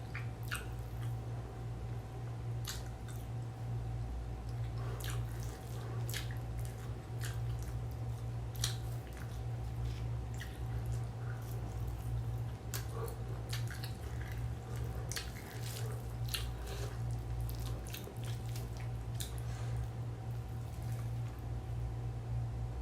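Close-up eating sounds: wet chewing and irregular mouth clicks and smacks over a steady low hum.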